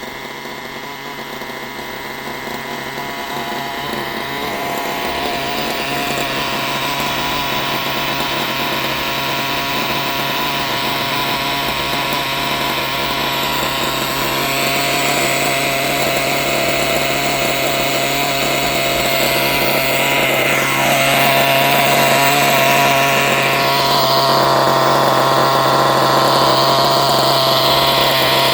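Kyosho Neo 4.0 nitro engine buggy's small glow-fuel engine running without a break, burning off its remaining fuel. It gets gradually louder, with a step up about twenty seconds in.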